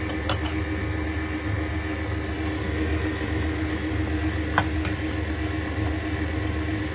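Stand mixer motor running steadily while it kneads pizza dough, with a couple of faint clicks.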